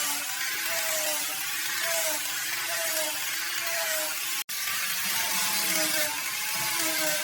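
A power tool working wood with a steady loud hiss, its motor pitch dipping and recovering about once a second as it is pushed into the cut. The sound cuts out abruptly for an instant about four and a half seconds in.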